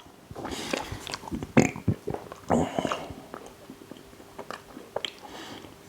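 A man chewing a very large mouthful of food, with irregular clicks and smacks, a few louder ones in the first three seconds.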